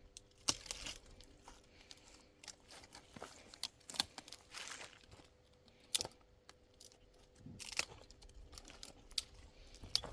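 Scattered short clicks, crackles and rustling, irregular and fairly quiet, over a faint steady hum.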